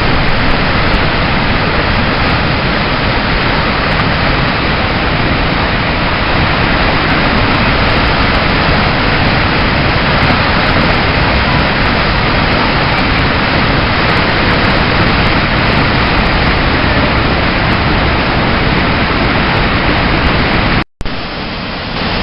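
Loud, steady rushing of river whitewater. It cuts out for an instant near the end, then returns quieter.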